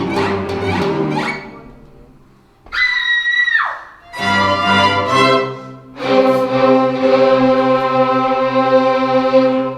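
Chamber orchestra strings playing. A rhythmic passage dies away, then a single high note slides sharply down. After a short chord, the ensemble holds a long closing chord that stops near the end.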